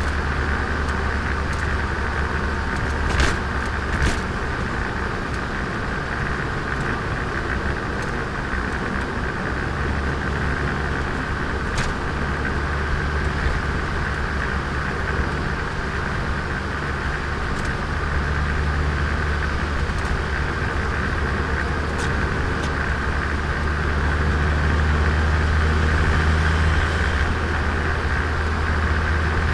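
Turbocharged Nissan Micra engine pulling steadily on the road, with tyre and road noise and a few sharp clicks. The engine note holds steady and grows a little louder near the end.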